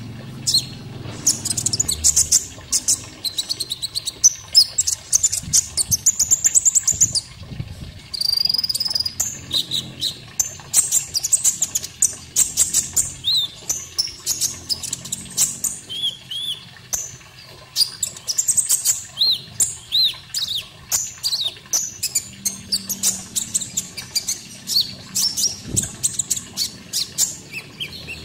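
Konin songbird singing: fast bursts of high chirps and trills with short rising whistles, almost without a break.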